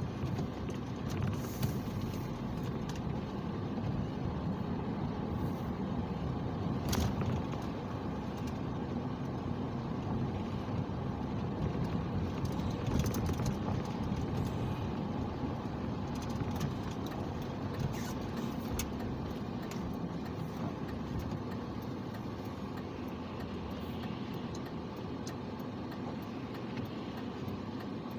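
A car being driven, heard from inside the cabin: a steady low rumble of engine and road noise, with a few small clicks and rattles.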